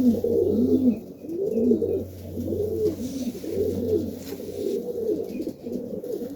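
Domestic pigeons cooing over and over in a loft, several birds overlapping, each coo a rising-and-falling low call.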